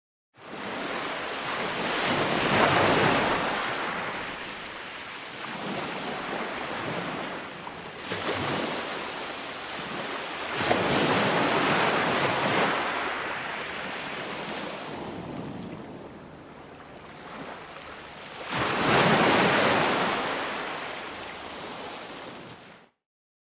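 Ocean surf: waves breaking and washing in, swelling loudest three times, about eight seconds apart. It starts just after a moment of dead silence and cuts off abruptly near the end.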